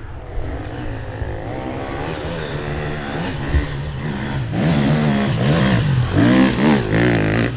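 Enduro dirt bike engine revving unevenly under constant throttle changes, its pitch rising and falling, growing louder about halfway through.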